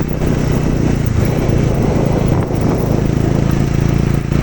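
Motorcycle engine running steadily under way, with wind and road noise on the microphone; the engine note dips briefly about two and a half seconds in and again near the end.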